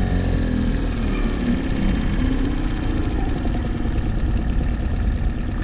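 Mercury 9.9 hp outboard running steadily in neutral at raised revs instead of idling down. It is racing in neutral and trying to change gear, a shift fault the owner says is "not right".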